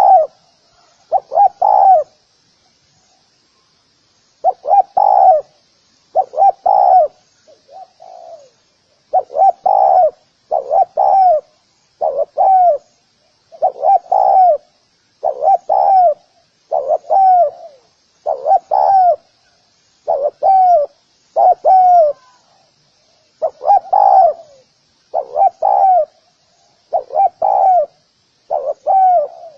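Spotted dove cooing: short, low, arching coos repeated about once a second, mostly in pairs, with a brief pause a few seconds in. A faint high chirping runs underneath.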